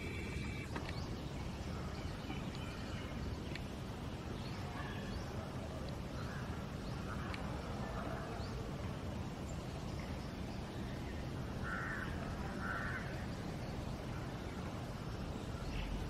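Steady outdoor background hiss and low rumble with faint distant bird calls, including two short calls about a second apart roughly three-quarters of the way through.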